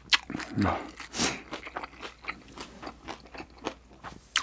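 Close-miked chewing of a mouthful, with many short wet, crunchy mouth clicks and a few brief puffs of breath.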